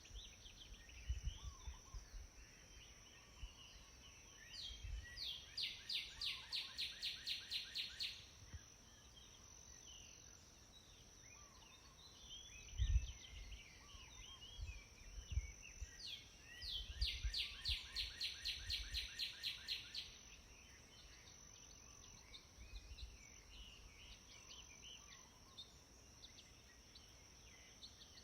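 Wild birds singing: one bird twice delivers a run of quick, repeated descending notes, each run about three seconds long, with scattered short chirps from other birds in between. A steady high-pitched hum runs underneath, with soft low rumbles.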